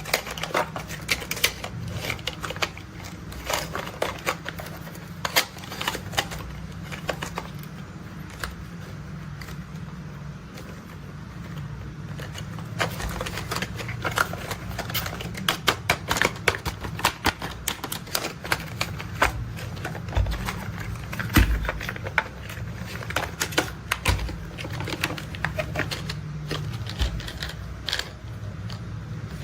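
Toy construction vehicles being handled and played with: a long run of irregular light clicks, taps and rattles of hard plastic parts, over a steady low hum.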